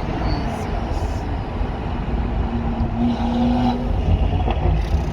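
Stage 2 BMW M140i's turbocharged B58 inline-six with a Quicksilver exhaust running steadily after a hard pull, heard from inside the cabin along with tyre and road rumble.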